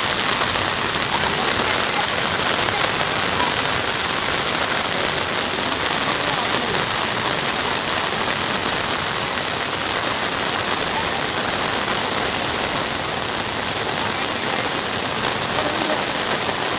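Heavy rain pouring down, a steady dense wash of rain on surfaces.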